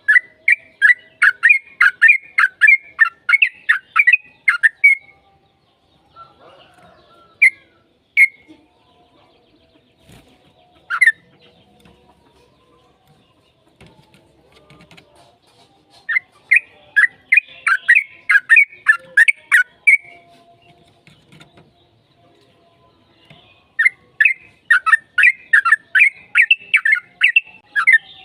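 Yellow-vented bulbul (trucukan) singing in long, fast runs of repeated chattering notes, about four a second. There are three runs: at the start, about two-thirds in, and near the end, with a few single calls in the pauses.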